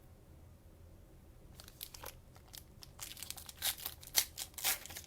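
Cellophane wrapper of a Mosaic cello pack of trading cards being torn open and crinkled. After a quiet first second and a half, the crackly bursts start and grow louder and denser in the last two seconds.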